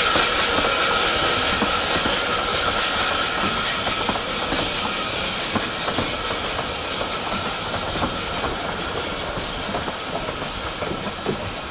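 A steam-hauled train rolling past: a steady rush of wheels on rail with scattered clicks. The sound fades gradually as the train moves away.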